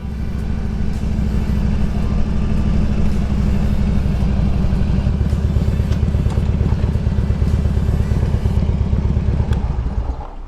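2003 Harley-Davidson Road King Classic's V-twin engine running as the bike is ridden, steady with fast, even firing pulses. It dies down near the end.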